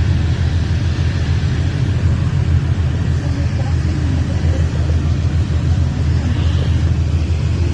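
Norfolk Southern freight train running by with a steady low rumble.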